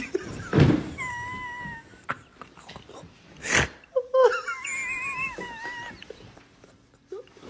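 A pet animal crying in drawn-out, high-pitched whines: a short one about a second in, then a longer, wavering one lasting about two seconds. Two brief rushing noises come between them.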